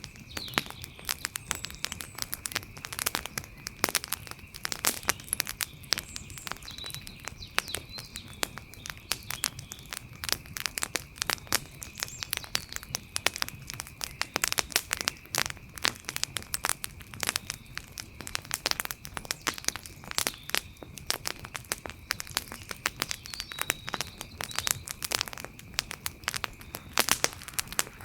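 Wood fire crackling: a dense, irregular run of sharp pops and snaps, with a faint steady high tone behind it and a few short faint chirps.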